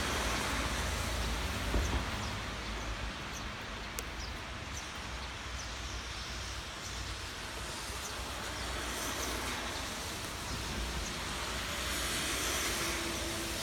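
Steady rain with a low rumble of passing traffic, loudest in the first two seconds, and a single sharp tick about four seconds in.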